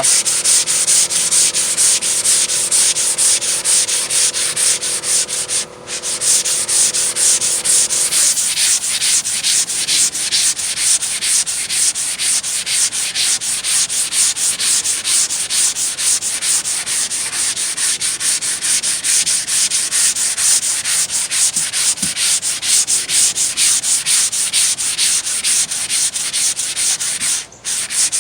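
A hand sanding block with 220-grit dry sandpaper being stroked back and forth over polyester putty and body filler on a car door panel, in a steady, even rhythm that pauses briefly twice.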